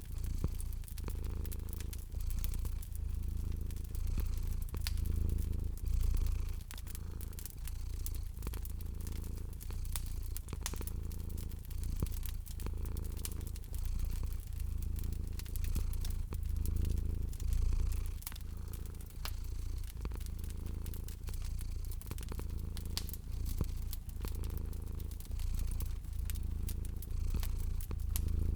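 A domestic cat purring steadily, the deep purr swelling and easing in a slow rhythm, over a fireplace fire crackling with many small sharp pops.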